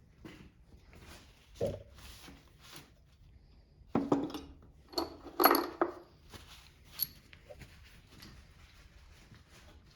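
Hand tools and metal engine parts clinking and clanking on a workbench during small-engine disassembly: a single knock early on, a cluster of sharp metallic clanks with a faint ring between four and six seconds in, then a lone click.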